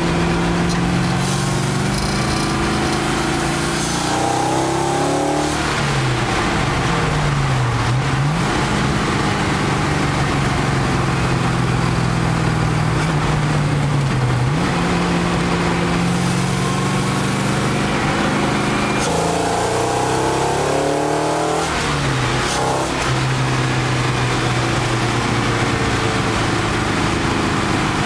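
Audi race car's engine heard from inside the cabin at track speed, its note falling and rising through braking, acceleration and gear changes. The pitch drops and then jumps sharply about eight seconds in and again around fourteen seconds, over steady road and wind noise.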